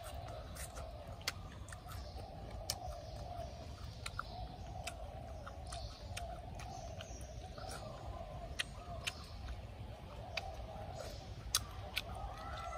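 Irregular sharp crunches and clicks as a person eats crispy fried spiders from a coconut-shell bowl. A steady, wavering background drone runs under it.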